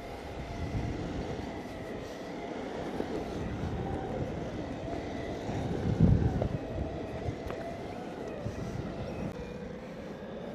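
Exway Flex Pro V3 electric skateboard rolling on asphalt: wheel rumble with a faint motor whine that wavers in pitch as the speed changes. A heavy low thump about six seconds in.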